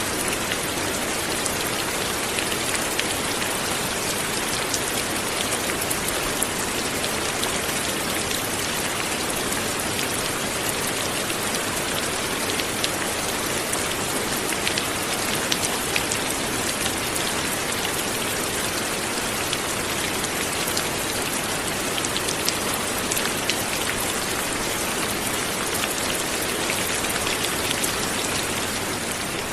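Steady light rain falling, a dense even patter of many small drops striking a surface.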